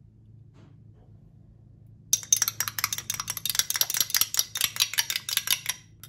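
Rapid clinking of a utensil against a dish, about ten strikes a second for a few seconds, with a light ringing, as in whisking or stirring in a bowl.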